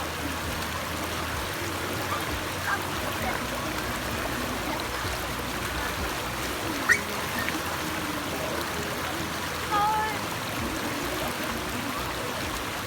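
Water of a stream's small waterfall cascades rushing steadily, with faint voices of people in the background and one sharp click about seven seconds in.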